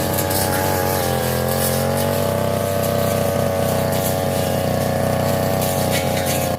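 Two-stroke Tanika 328 brush cutter engine running steadily at high revs. Its pitch dips slightly about a second in and then holds.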